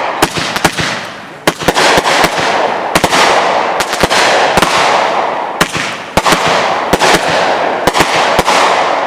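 Consumer fireworks firing from tubes in quick succession: a string of sharp bangs, sometimes several a second, over a continuous hissing crackle that swells and fades in waves.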